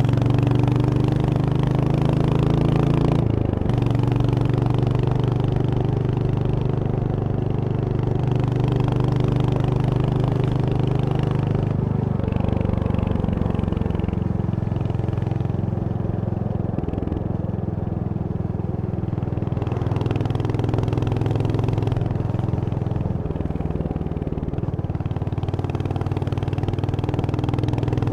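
Royal Enfield Hunter 350's single-cylinder engine running under way, its pitch rising with the throttle, dropping sharply about three seconds in at a gear change or throttle lift, then rising and settling again.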